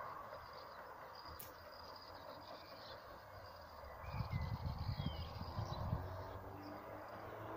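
Outdoor ambience with birds chirping faintly and making short whistled glides over a steady hiss. A burst of low rumbling thumps from about four to six seconds in is the loudest sound.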